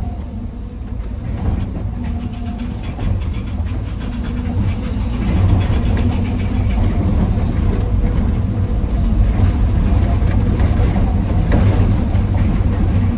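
Heavy diesel construction machinery running with a deep rumble, getting louder about five seconds in.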